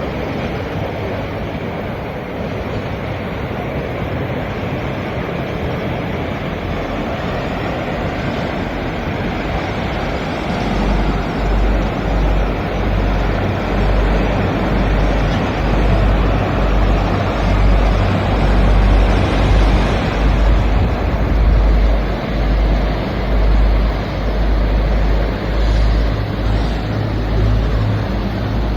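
Sea waves washing against rocks, a steady rush of surf, with wind. From about ten seconds in, wind buffets the microphone in low, uneven gusts.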